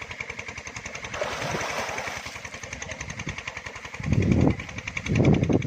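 A small engine running steadily with a rapid, even beat. About four seconds in come two loud, low rumbling blasts.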